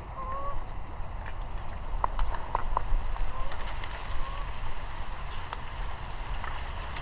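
Canada geese honking faintly, short scattered honks, over a low wind rumble on the microphone, with a few sharp clicks about two seconds in.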